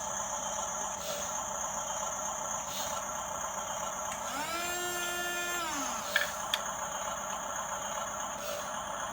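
Remote-control toy bulldozer's small electric motors whirring, with a whine that rises, holds and falls about halfway through, followed by two sharp clicks.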